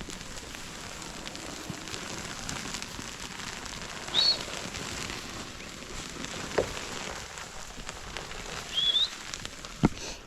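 Two short rising bird whistles, about four seconds in and again near the end, over a steady rustling, crackling hiss, with a couple of sharp knocks.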